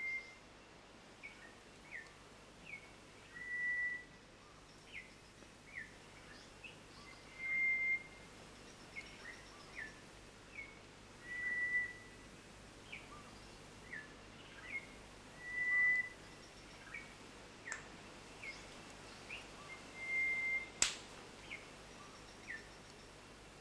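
Birds calling: a clear, steady whistled note repeated about every four seconds, with short descending chirps in between. A single sharp knock sounds near the end.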